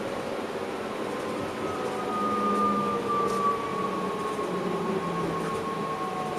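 Electric train's traction motors whining in the driver's cab, several steady tones falling slowly in pitch as the train eases its speed, over the rumble of wheels on the rails.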